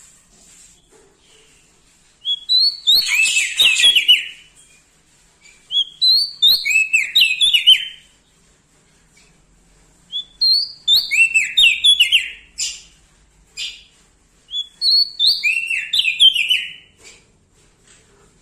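A prenjak daun songbird singing four loud phrases, each a quick run of whistled notes stepping down in pitch and lasting about two seconds, with short pauses between them. A faint high hiss fills the gaps.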